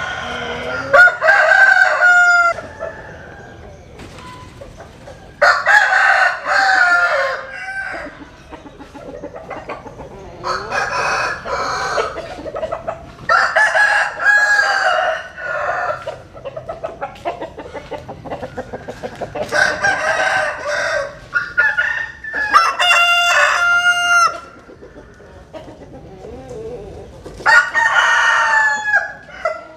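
Roosters crowing again and again, about seven crows spaced every few seconds, with chickens clucking between them.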